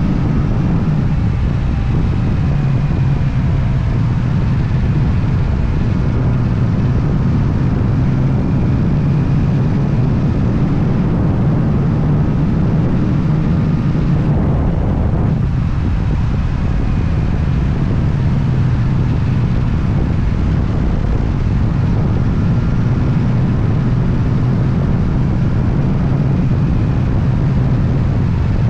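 Motorcycle engine running steadily under way, with wind and road noise on the move.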